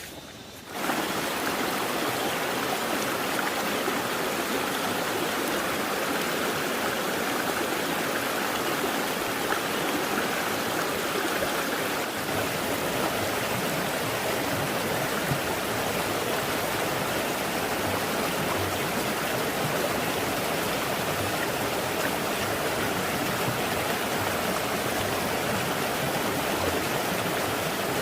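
Steady rushing water, starting abruptly about a second in and holding at an even level.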